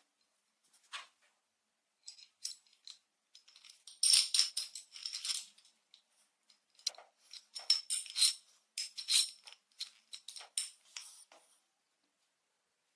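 Irregular rattling and clinking of small hard objects in two main clusters of bursts, with quieter scattered clicks between them.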